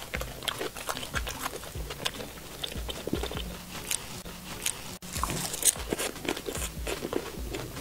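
Close-up biting and chewing of a chocolate egg tart, its flaky, crisp pastry crust crackling in many small sharp crunches.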